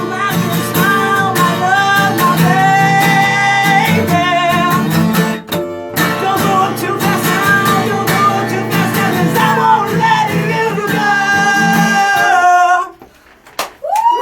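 Acoustic guitar strumming under a held, wordless vocal line as the song closes. The last chord rings out about twelve and a half seconds in, followed by a brief silence.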